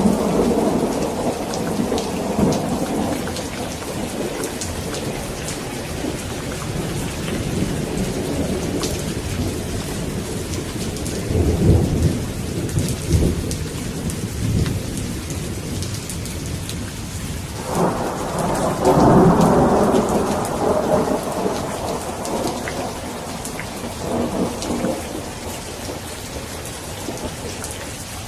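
Thunderstorm: steady heavy rain with fine drop patter throughout, and rolling thunder rumbling several times. The loudest peal breaks in suddenly about two-thirds of the way through and rolls away over a few seconds.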